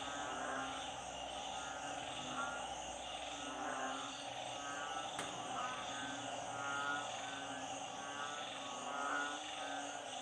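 A dense chorus of frogs calling together, narrow-mouthed frogs (ueng) and small frogs (khiat): many overlapping croaks form a steady din, with a pulsed call repeating about once a second.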